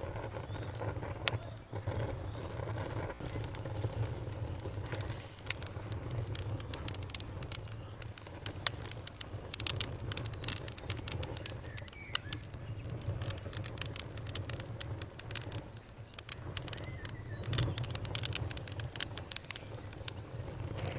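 Campfire crackling and popping: irregular sharp snaps, thickening into dense clusters in the middle and again near the end, over a steady low rumble.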